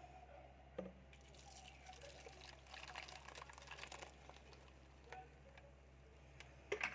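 Liquid being poured faintly for about three seconds, starting a little over a second in, over a low steady hum, with a small knock just before the pour and sharper clatter at the very end.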